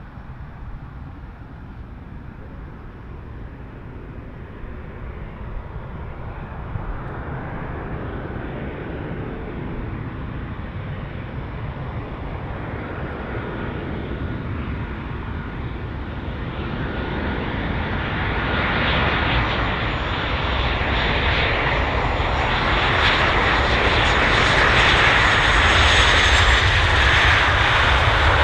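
An airliner's engines growing steadily louder as it approaches. A whining tone comes through in the second half, and it builds to its loudest near the end.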